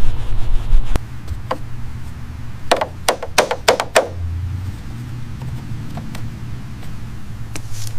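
A quick run of about six sharp knocks a few seconds in, with a few fainter taps later, over a low steady rumble that is loudest in the first second.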